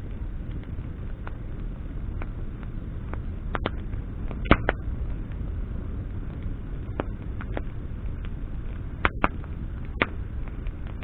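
Wood campfire burning: a steady low rush with irregular sharp crackles and pops from the burning branches, the loudest pop a little under halfway through.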